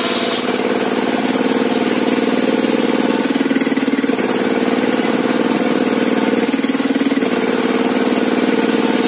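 An engine running steadily, its pitch shifting briefly twice: a little after three seconds and again at about six and a half seconds.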